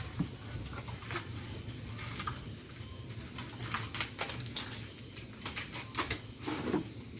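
Wood bonfire crackling: irregular sharp snaps and pops at an uneven pace over a low steady rumble.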